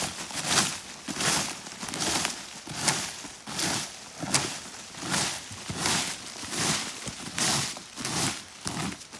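Footsteps crunching through dry leaf litter at a steady walking pace, roughly one step every three-quarters of a second.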